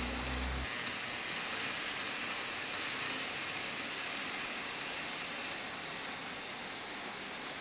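N-gauge model train running on the layout track: a steady rushing hiss of wheels and motor on the rails, with a low hum that drops away under a second in.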